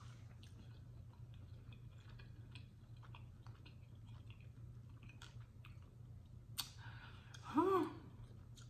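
A person chewing a mouthful of chitterlings with the mouth closed, with small wet mouth clicks throughout. Near the end comes a short hummed 'mm', the loudest sound.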